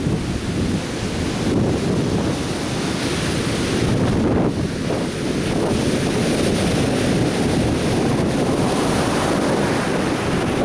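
Atlantic surf breaking and washing ashore continuously, with wind buffeting the microphone.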